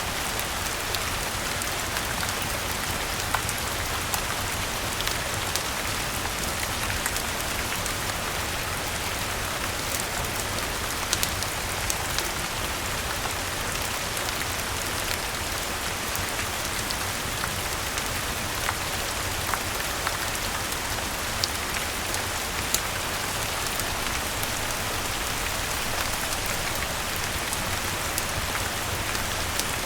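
Steady rain falling on leaves and surfaces, with scattered sharp clicks throughout.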